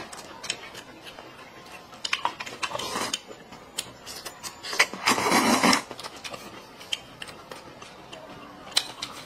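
Eating rice noodles: slurping and chewing, loudest in one long slurp about five seconds in, with light clicks of chopsticks on a bowl.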